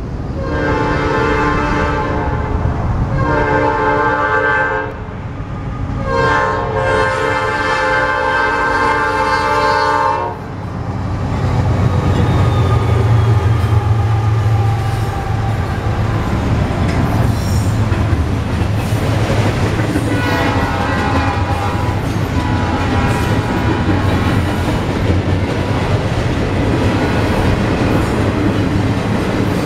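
Norfolk Southern diesel locomotive's air horn sounds three blasts over the first ten seconds, the last one the longest. Then the locomotive's diesel engine rumbles past close by, followed by the steady rolling rumble and clickety-clack of double-stacked container cars.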